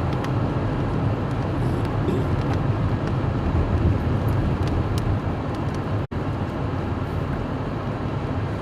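Car driving on a wet road, heard from inside: a steady rumble of engine and tyre noise with faint scattered ticks. The sound cuts out completely for an instant about six seconds in.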